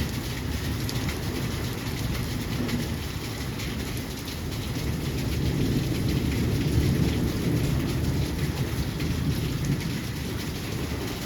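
Heavy rain falling steadily, with a dense patter of drops over a deep, steady rumble.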